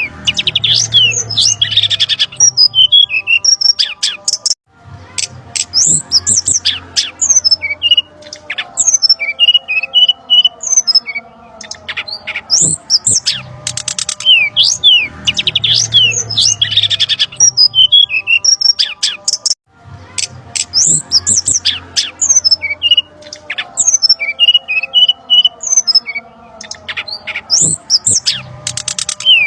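Looped bird-lure recording of brown-chested jungle flycatcher calls: fast, loud runs of high chirps, trills and squawky notes. The recording cuts out briefly about 4.5 seconds in and again about 19.5 seconds in, restarting the same sequence each time.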